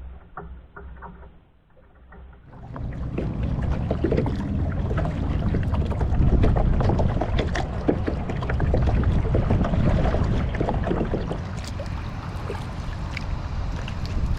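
Water splashing and lapping around a kayak on the water, with wind buffeting the microphone. It becomes much louder and fuller about two and a half seconds in.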